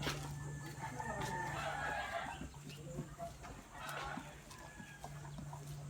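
Chickens clucking and calling: a long call from about half a second in that lasts about two seconds, then a shorter call around four seconds in.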